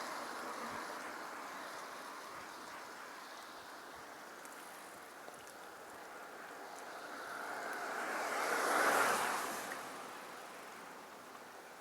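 Hiss of tyres on a wet road, swelling as a vehicle passes about nine seconds in and then fading.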